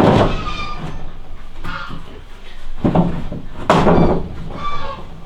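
Several loud knocks and bangs, the loudest at the start and two more about three seconds in, with short voice-like sounds between them. They fit wooden boards or bed parts being struck or set down during building work.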